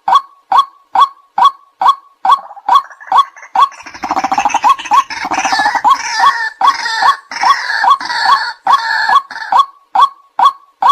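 White-breasted waterhen calling: short repeated 'kwak' notes, about two or three a second. From about two seconds in until near the end, a louder, harsher chorus of overlapping calls joins in, then the plain repeated notes carry on alone.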